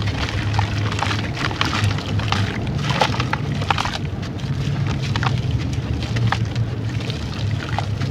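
Dry brown sand-clay crumbling and soaking in water: a dense, irregular crackling of small crunches and pops over a low rumble.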